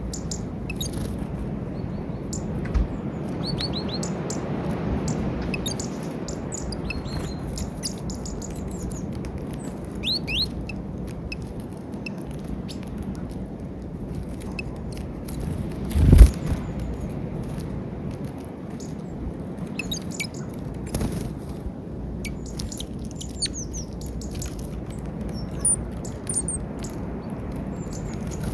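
Small wild birds chirping and calling at a peanut feeder, many short high chirps coming and going over a steady low background rumble. A single sharp thump about halfway through is the loudest sound.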